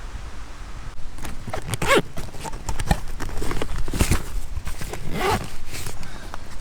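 Footsteps on the ground, a run of irregular steps about two a second, starting about a second in.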